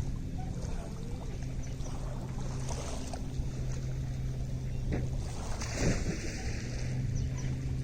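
Lakeside water and wind noise under a steady low hum that drops out for short stretches, with a brief louder splash-like sound about six seconds in.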